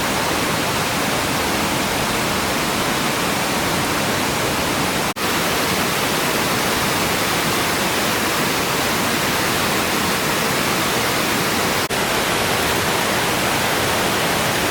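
Waterfall pouring steadily, an even rushing noise of falling water that cuts out briefly twice.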